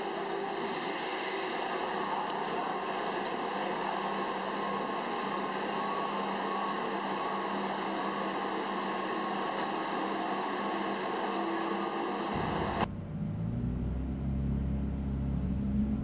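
Steady hiss of garage background noise, then an abrupt change about thirteen seconds in to the low, steady idle of a supercar's engine, heard from inside the cabin.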